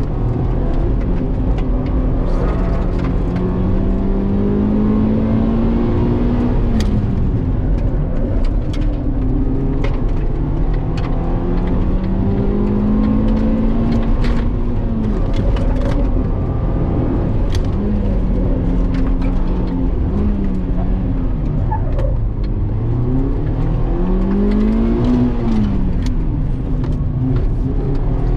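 Car engine being driven hard on a circuit lap: its note climbs steadily under acceleration and falls away under braking several times over, over constant road noise, with scattered sharp ticks.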